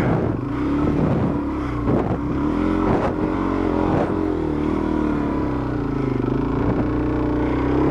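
Dual-sport motorcycle engine held at high revs, its pitch wavering, while the rear tyre spins in slick mud and fails to find grip; a few knocks in the first half.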